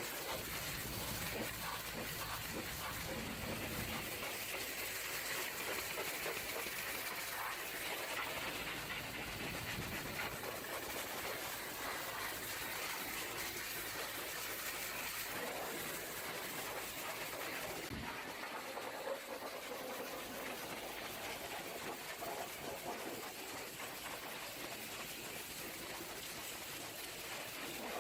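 High-pressure washer jet hissing steadily as it sprays water against a truck's body, with a single knock about two-thirds of the way in.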